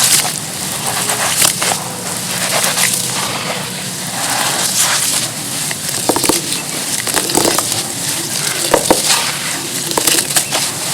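Pieces of pure charcoal being crushed and crumbled in water by hand: a continuous crunching crackle with many small sharp snaps.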